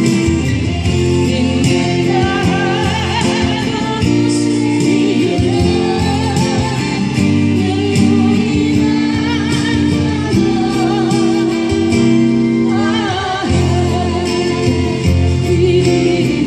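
Singing with instrumental accompaniment: the voice wavers with vibrato over steady held bass notes and a plucked guitar.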